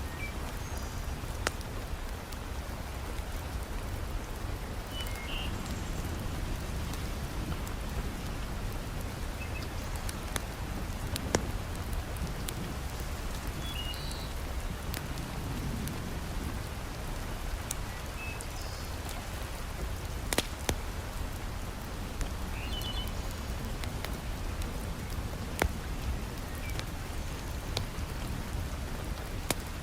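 Steady heavy rain, an even dense hiss, with a few sharp pops and crackles from a wood fire in a fireplace scattered through it.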